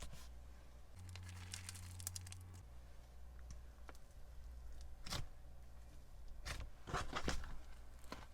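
Slime being squished and stretched by hand, giving a few short crackling, tearing squelches; the loudest come near the end.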